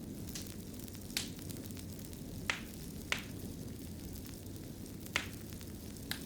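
Wood fire burning in a fireplace: a steady low rumble of the flames with five sharp crackles and pops spread through, the loudest about a second in and near the middle.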